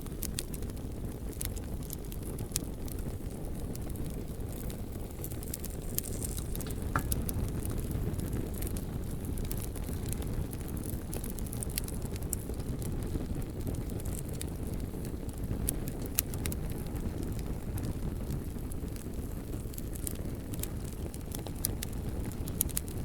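Campfire crackling, with scattered sharp snaps and pops throughout, over a steady low rumble.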